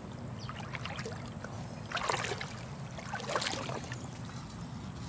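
Creek water splashing briefly twice, about two seconds and three and a half seconds in, as something is handled or moved in shallow water, over a steady low rumble and a constant thin high whine.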